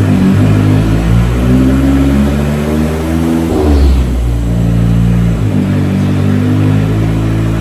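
Turbocharged Honda K24 inline-four engine in a Nissan Hardbody truck running loud on a chassis dyno, its pitch stepping up and down, with a brief rush of noise about three and a half seconds in before it settles steady again.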